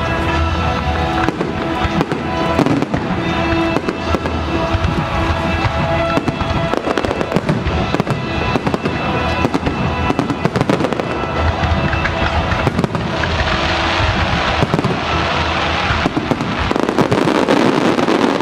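Fireworks bursting and crackling in quick succession over music from loudspeakers, with a denser run of crackle in the last few seconds.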